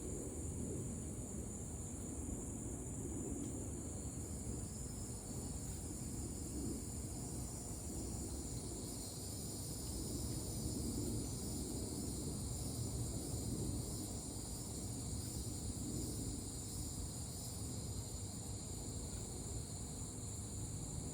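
Crickets and cicadas chirring in a steady high-pitched drone, with a second pulsing trill joining about four seconds in, over a low steady rumble.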